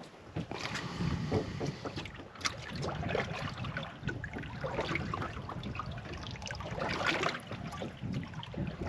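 Small boat at anchor, with water lapping against the hull and irregular small knocks and clicks of fishing tackle being handled aboard.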